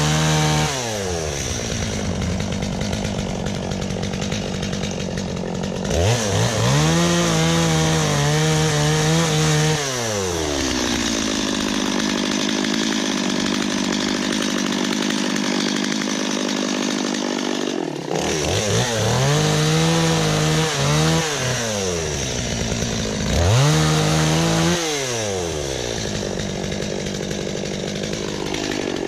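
Gas chainsaw running, revved up and dropped back to idle several times. In the middle there is a longer steady stretch that sounds like the saw under load cutting wood.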